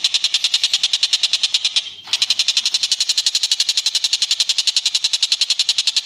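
Cililin bird giving a rapid, continuous high trill of about fourteen pulses a second, broken once briefly about two seconds in.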